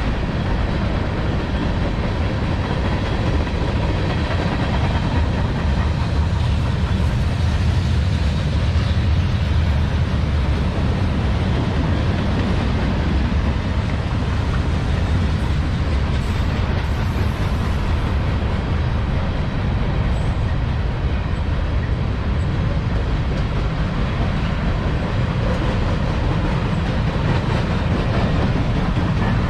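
CSX freight train cars rolling steadily past on the rails, a continuous low rumble of wheels on track.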